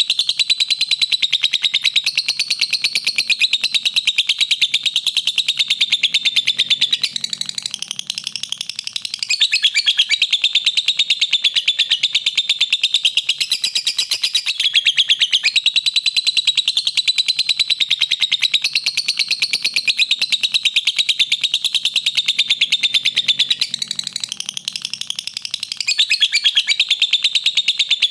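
Lovebird chattering in one long, unbroken run of rapid, shrill chirps, the continuous 'ngekek' song used as a training recording for other lovebirds. The chatter eases briefly about eight seconds in and again near twenty-five seconds.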